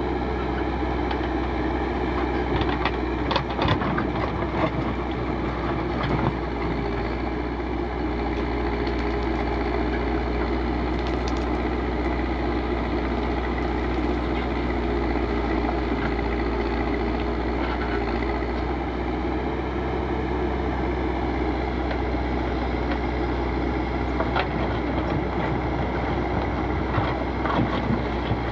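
Backhoe loader's diesel engine running steadily while digging, with scattered short knocks a few seconds in and again near the end.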